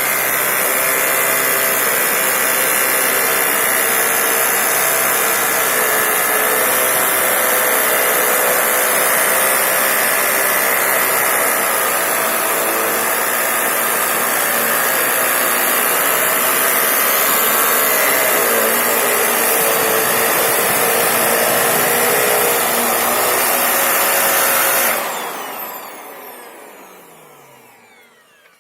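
Vax Air Reach upright vacuum cleaner running steadily while vacuuming carpet, then switched off a few seconds before the end, its motor whine falling as it spins down.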